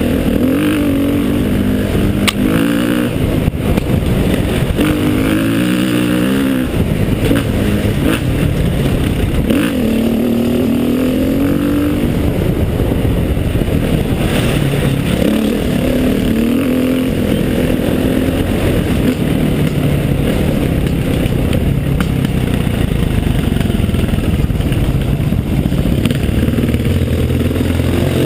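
Trail motorcycle engine pulling up a hill, its pitch rising and falling again and again as the throttle is worked, with a few sharp knocks along the way.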